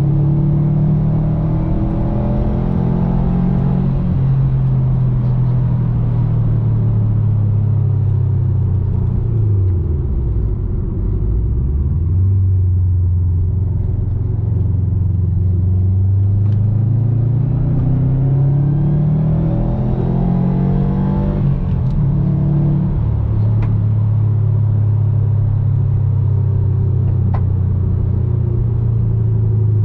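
2019 Subaru WRX STI's turbocharged flat-four engine heard through its Invidia N1 exhaust while driving. The revs dip and pick up again about ten seconds in, then climb steadily for about ten seconds, drop sharply, and hold steady to the end.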